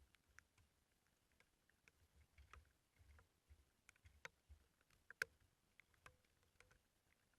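Faint, irregular ticks and taps of raindrops dripping onto hard surfaces and gear, with one sharper click about five seconds in and soft low thuds.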